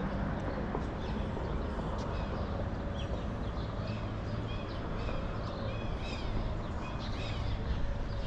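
Birds calling with short, repeated chirps that start about three seconds in and come thicker near the end, over a steady low street rumble.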